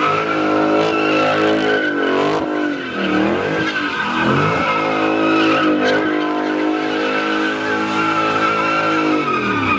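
Car doing a burnout: the engine is held at high revs, dipping and picking up again a few times, while the tyres squeal steadily; the revs drop off right at the end.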